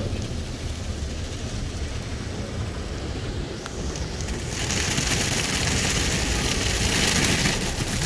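Automatic car wash heard from inside the car's cabin: a steady low rumble of the wash machinery, then about four and a half seconds in water spray starts hissing against the car for about three seconds.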